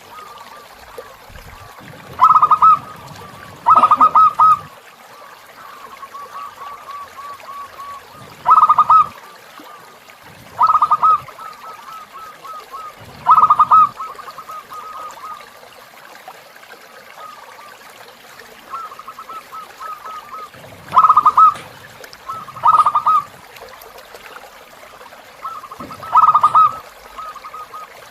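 Zebra doves cooing: a soft, fast run of repeated coo notes throughout, broken by eight loud bursts of staccato cooing, over trickling river water.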